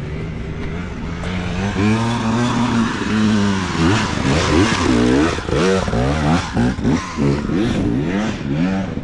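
Dirt bike engine revving hard in repeated bursts, its pitch rising and falling many times as the rider works the throttle up a steep climb. A steadier engine runs underneath.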